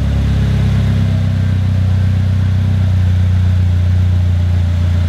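Polaris Slingshot's GM Ecotec four-cylinder engine idling steadily, a deep even hum.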